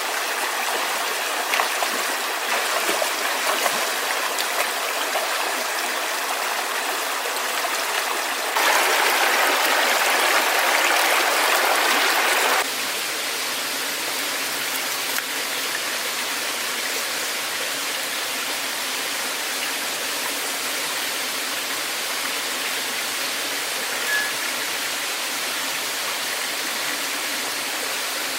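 Steady rush of flowing stream water. It gets louder for about four seconds in the middle, switching up and back down abruptly. A few light clicks come in the first few seconds.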